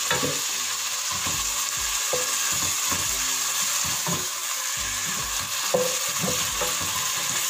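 Diced chicken breast frying in oil with garlic in a nonstick pot, giving a steady sizzle, while a wooden spoon stirs it with irregular soft knocks and scrapes against the pot.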